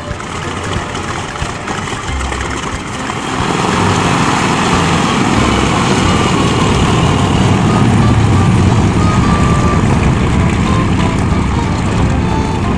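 Boeing 40C biplane's radial engine running, a steady rumble that grows louder about three and a half seconds in and then holds.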